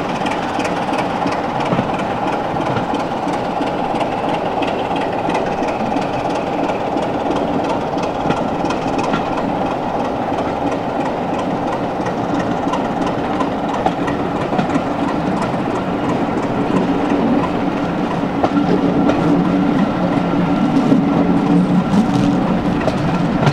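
Class 26 diesel-hauled passenger train running along the line, heard from an open window of the rear coach. It is a steady running noise, with the coach wheels clicking over rail joints. It grows somewhat louder over the last few seconds.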